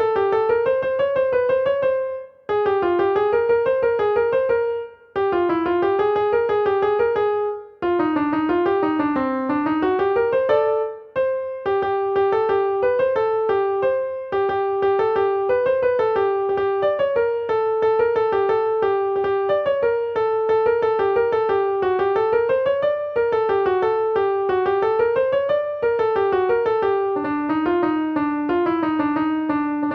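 Keyboard playing a single-line Arabic melody in short phrases, with brief pauses between phrases in the first ten seconds and then flowing on without breaks.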